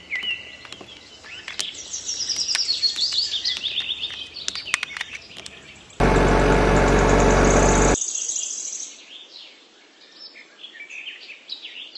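Small birds chirping in quick repeated phrases, with scattered light clicks. About six seconds in, a much louder harsh sound cuts in for about two seconds and stops abruptly. Fainter high chirping follows and dies away.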